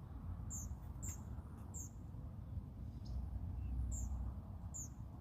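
Small wild bird chirping: about five short, very high chirps at uneven intervals, over a low rumble.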